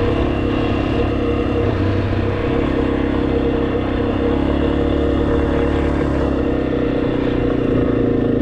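Motorcycle engine running steadily while riding, its note shifting slightly about two and a half seconds in, over a steady rush of wind and road noise.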